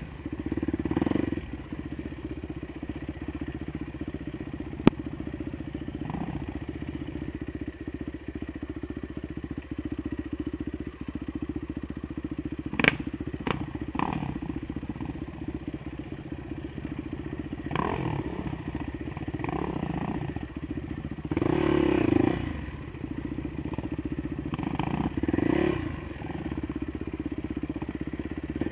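Dirt bike engine running at low revs over a rough track, with several short bursts of throttle and a few sharp knocks and clatters.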